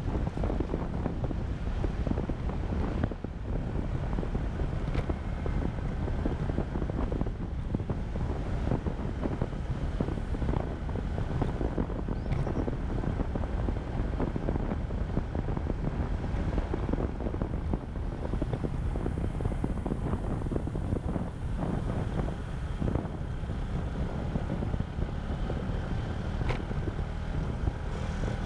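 Wind buffeting the microphone of a camera on a moving motorcycle, with the motorbike's engine running steadily underneath.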